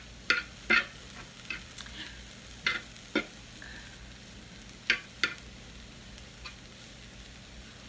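Chicken and onions frying in a pan with a faint steady sizzle, while a utensil scrapes and knocks against the pan about seven times in the first five seconds as the food is stirred.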